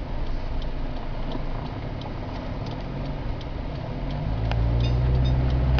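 Car engine and road noise, with faint light ticks every half second or so; the engine's hum grows stronger and a little higher about four seconds in.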